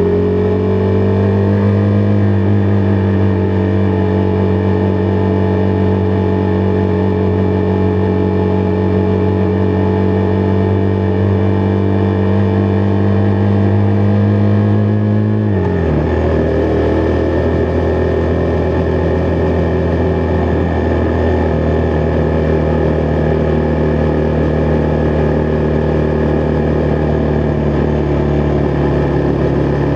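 Husqvarna Vitpilen 401's single-cylinder engine running steadily under way. Its pitch rises slightly at first, then drops suddenly about halfway through and holds steady lower.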